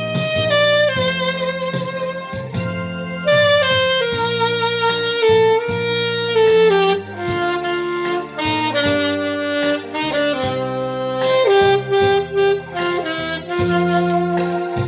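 Saxophone playing a melody line of held and moving notes over a backing track with a steady beat and bass.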